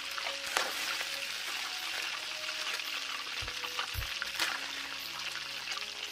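Hot oil sizzling steadily in a wok as pieces of fried walking catfish are scooped out, with a few light clicks of a utensil.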